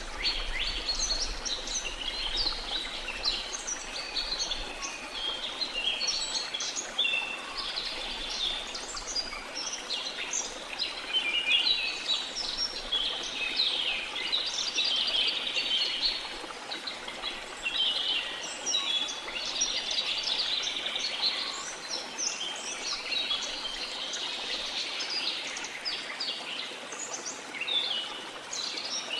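A dense chorus of many birds chirping and calling without pause, over a faint steady rush of falling water.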